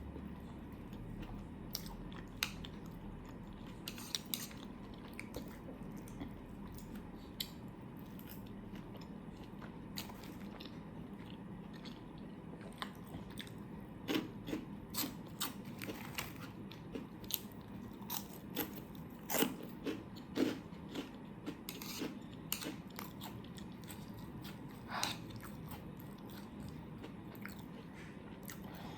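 Close-miked mukbang eating: a person chewing and biting food, with wet mouth clicks and crunches, coming thickest and loudest in the middle stretch.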